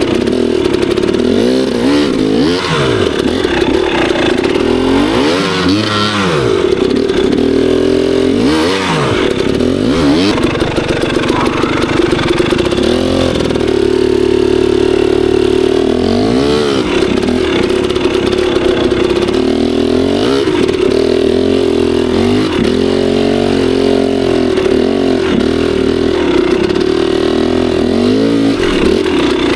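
Two-stroke dirt bike engine being ridden hard over rough trail, revving up and dropping back again and again with several sharp blips of the throttle.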